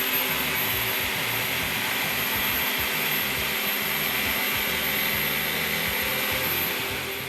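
Steady whirring of an electric motor-driven machine, dropping away near the end.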